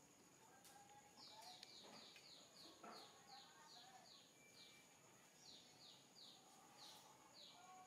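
A small bird calling: a run of short, high, falling chirps starting about a second in, and a shorter run near the end, with a few faint knocks.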